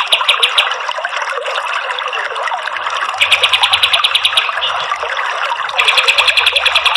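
Kapas tembak bird singing its fast, evenly repeated rapid-fire trill in three bursts: briefly at the start, again about three seconds in, and near the end. Under it runs a steady wash of running water.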